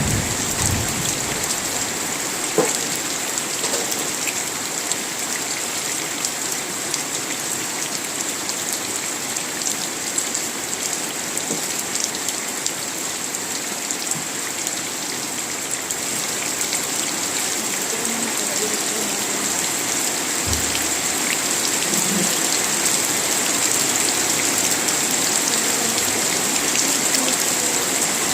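Steady rain falling, an even hiss with a bright high band running through it.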